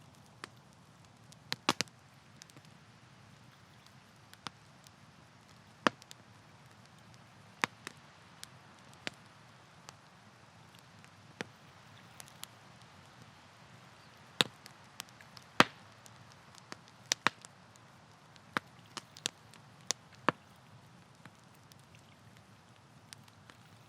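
Wood campfire crackling: sharp, irregular pops and snaps, some loud, over a faint steady background hiss.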